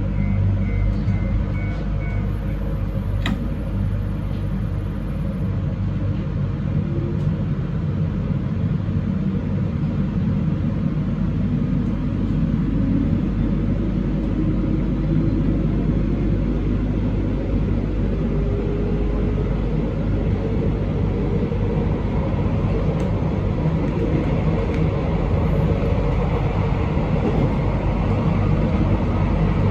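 Train running along the track, a steady low rumble and hum, with a faint whine that slowly rises in pitch as the train gathers speed.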